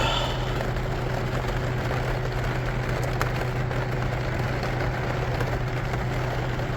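Heavy rain falling steadily on the truck camper's roof, heard from inside, with a steady low hum underneath.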